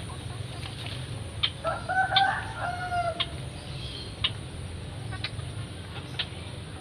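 A rooster crowing once in the distance: one wavering call about a second and a half long that trails off at the end. A few short sharp ticks sound before and after it.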